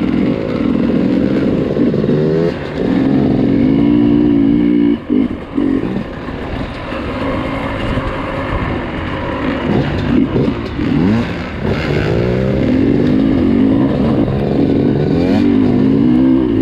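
Dirt bike engines revving up and easing off again and again, more than one bike at a time, as a group rides off-road.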